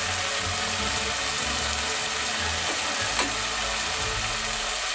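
Ginger-garlic paste and curry leaves sizzling steadily in hot oil in an aluminium pot, with one light click about three seconds in.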